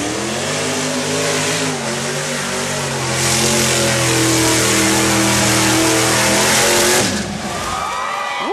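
Mud-bog truck engine revving hard and holding high revs through a mud pit. A loud rushing hiss joins about three seconds in, and the engine drops off near the end.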